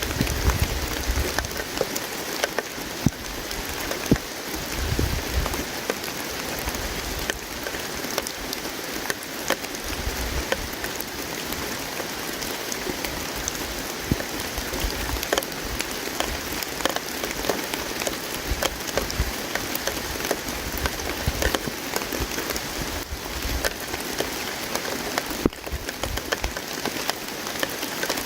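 Campfire crackling, with many small sharp pops over the steady hiss of flowing river water, and occasional low rumbles.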